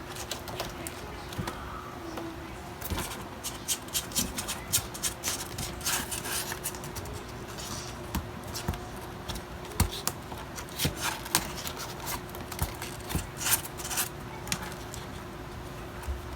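Irregular light scratching, tapping and rustling, busiest through the middle, over a steady faint hum.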